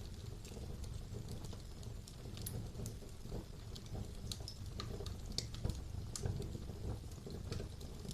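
Wood fire burning in a fireplace: a low steady rumble of flames with scattered sharp crackles and pops, several a second.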